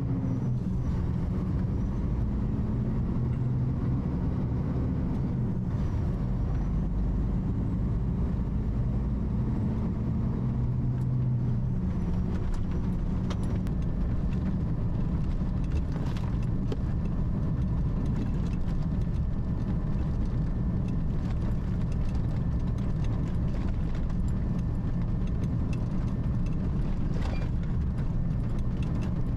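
Semi-truck running along the road, a steady engine drone and road rumble. The engine's pitch rises and falls during the first ten seconds or so, then holds steady.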